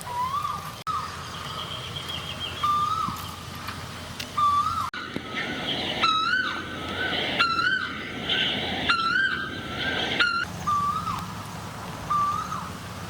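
Birds calling: a short whistled note repeated every second or two, a higher trill, and a few louder wavering calls in the middle.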